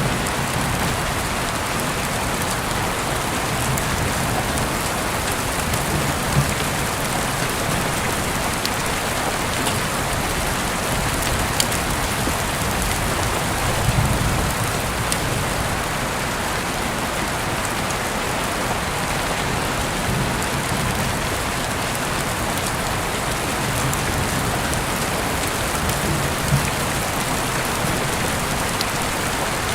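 Heavy rain falling steadily, heard through an open window, with occasional louder drops striking close by.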